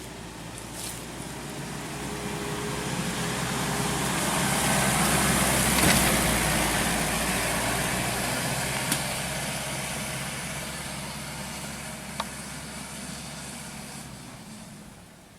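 An off-road SUV's engine and tyres passing by: the sound grows louder, peaks about six seconds in, then fades as the vehicle moves away, with a couple of brief sharp ticks along the way.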